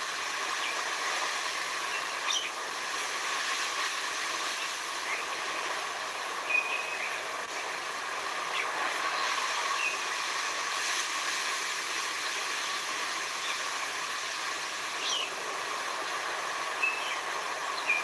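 Steady rushing of the sea, even in level, with a few short bird chirps scattered through it.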